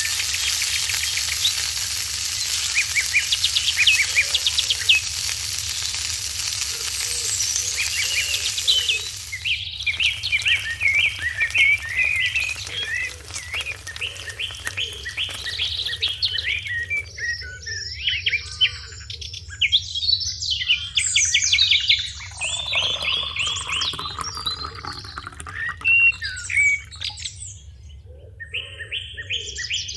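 Many small birds chirping and calling. For about the first nine seconds a steady sizzle of food frying runs under the birdsong, then cuts off suddenly, leaving the birds alone.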